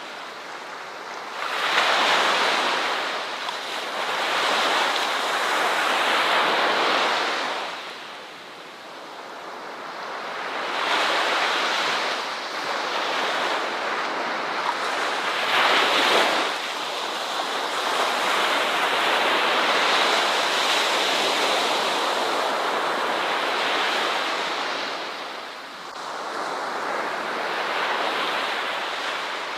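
Ocean surf, waves washing onto a shore in a continuous hiss that swells and ebbs every several seconds, with one sharper, louder break about halfway through.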